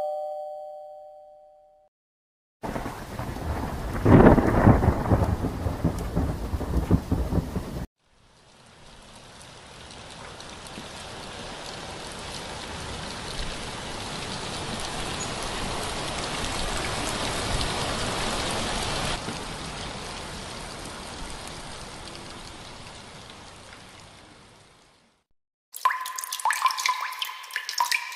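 A thunderclap with a rolling rumble, loudest about four seconds in, that cuts off abruptly after about five seconds. Then steady rain that fades in, holds and fades out over about seventeen seconds. A fading two-note doorbell chime opens the stretch, and ringing metallic dings begin near the end.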